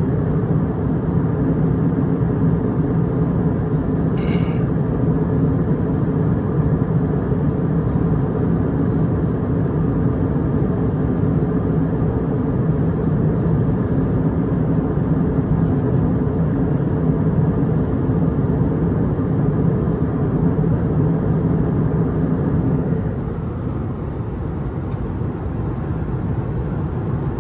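Steady cabin noise of an Airbus A320 in cruise: the constant rush of the engines and airflow with a low hum. A brief high ping sounds about four seconds in, and the noise grows a little quieter about 23 seconds in.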